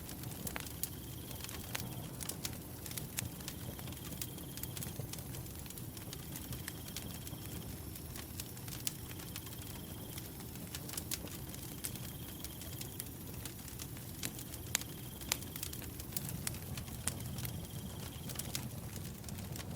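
Firewood burning, crackling with scattered sharp pops over a low, steady rumble of flame. A cricket trills at one steady high pitch in spells of a second or two, repeating every few seconds.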